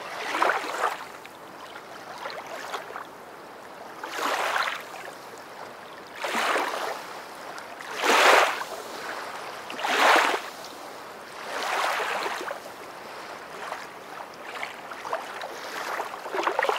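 Water washing and splashing in repeated swells, one rush about every two seconds, with quieter water noise between them.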